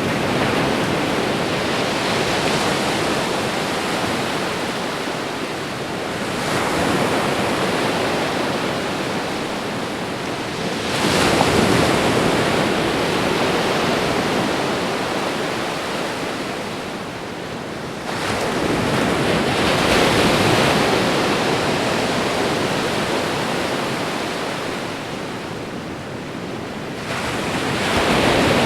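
Ocean waves breaking and washing in, a dense rushing noise that surges and fades, with five waves rolling in several seconds apart.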